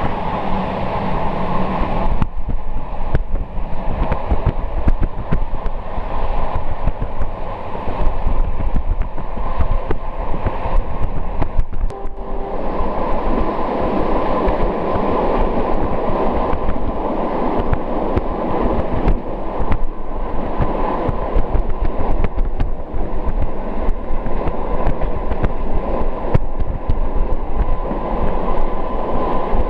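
Passenger train running at speed, heard from inside the carriage: a continuous rumble of wheels on rails with many small clicks and rattles.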